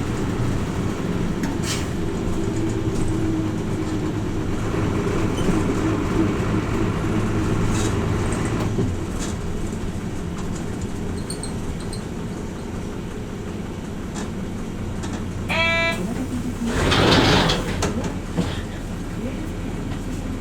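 Hino Rainbow RJ bus heard from inside the cabin, its diesel engine running and then dropping to a lower, idling note about nine seconds in. Near the end a short electronic chime sounds, followed by a loud hiss of compressed air.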